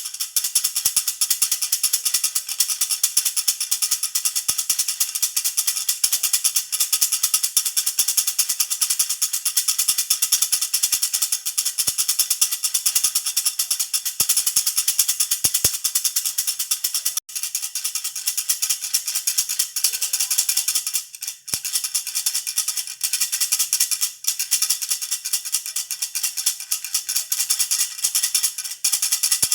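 Jhunjhuna baby rattle shaken continuously, a dense, bright jingling rattle with two brief breaks, about 17 and 21 seconds in.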